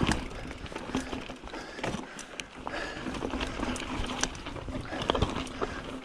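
Mountain bike rolling over a rough dirt trail, with irregular clattering knocks and rattles from the bike over roots and bumps.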